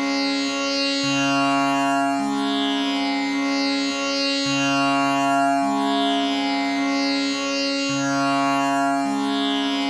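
Tanpura drone tuned to C sharp, its strings plucked in turn in an unbroken cycle that repeats about every three and a half seconds, with the buzzing, shimmering overtones of the instrument's bridge.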